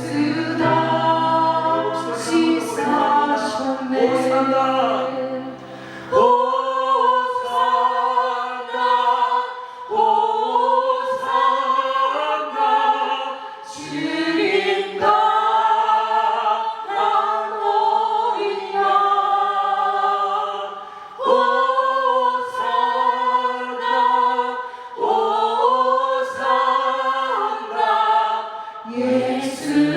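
A choir singing a Korean hymn in long, held phrases, several voices in harmony.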